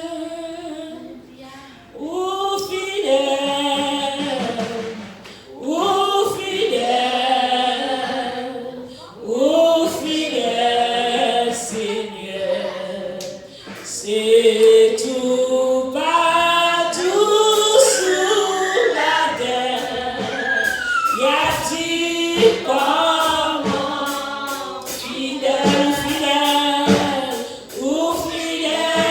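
Congregation singing a hymn together in phrases of a few seconds, mostly unaccompanied, with women's voices prominent.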